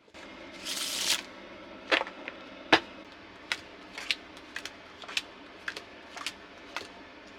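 Playing cards rustle briefly about a second in, then are dealt onto a table. Each card lands with a sharp flick, about one every half second.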